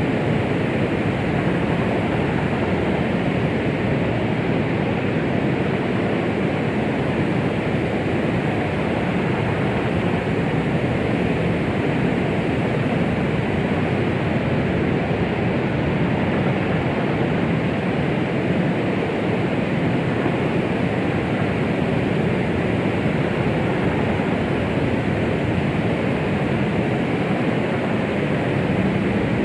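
Steady white-noise track made to imitate the sound of the womb for soothing a baby: an even, unbroken rushing hiss, fuller in the low and middle range and thinning out in the highs.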